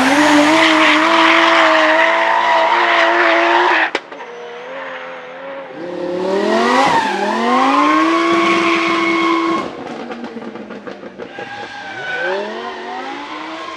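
A drift car's engine held high in the revs over squealing tyres, then cutting off sharply about four seconds in; it climbs again and holds, falls away after about ten seconds, and starts to rise once more near the end.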